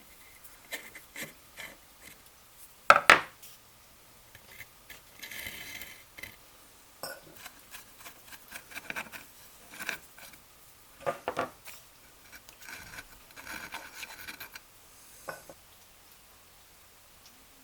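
Metal parts of an old Stanley No. 130 block plane being handled on a workbench: scattered clinks and knocks of metal on metal, the loudest about three seconds in. Two short stretches of scraping or rubbing come around five seconds and thirteen seconds in.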